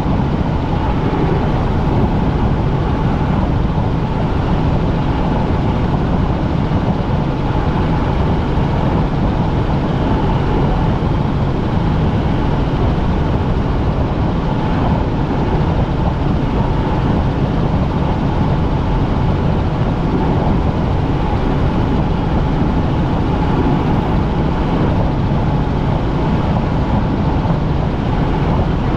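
Helicopter in flight: loud, steady engine and rotor noise heard from inside the cabin, unchanging throughout.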